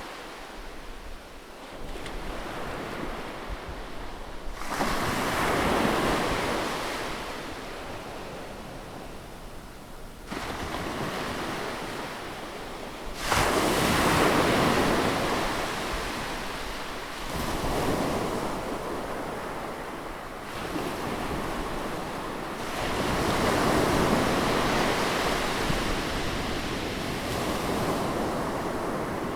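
Sea waves breaking and washing back, in surges every few seconds, the loudest arriving suddenly about halfway through. Wind on the microphone runs under them.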